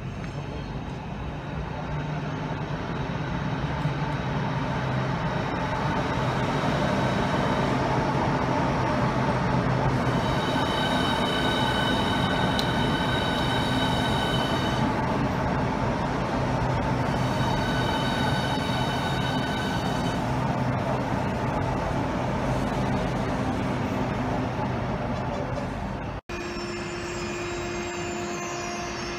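Southeastern Class 395 Javelin high-speed electric train running into the platform and passing close by: a rumble of wheels and traction equipment that grows over the first few seconds, with a high squeal coming and going twice midway. Near the end the sound cuts abruptly to a Eurostar train approaching, a steadier hum with a held tone.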